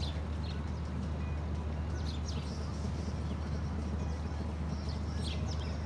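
Birds giving a few short, high chirps over a steady low rumble.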